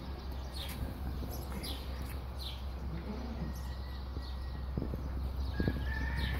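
Small birds chirping, short falling chirps about once a second, over a steady low rumble; a couple of soft knocks come near the end.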